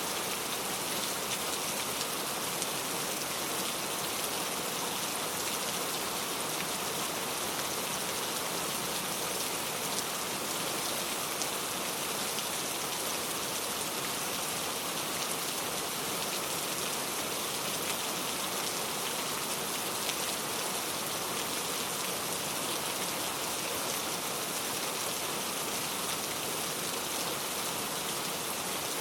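Steady rain falling, a dense hiss of many small raindrops pattering on a surface.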